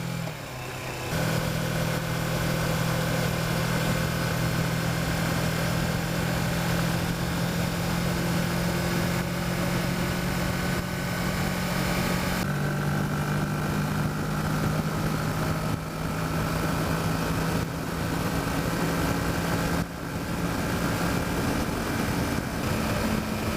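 Kawasaki Versys motorcycle engine running steadily at cruising speed, with wind turbulence rushing over the microphone. The engine note settles after a brief dip about a second in and shifts to a slightly different pitch about halfway through.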